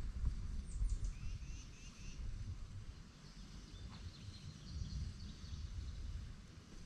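Faint bird calls over a low, steady rumbling noise: a short run of chirps about a second in, then higher twittering in the middle.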